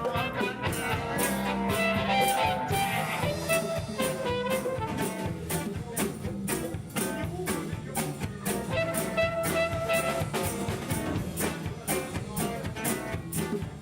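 Live rock band playing an instrumental passage between sung verses: a melody line over guitar, with drums keeping a steady beat.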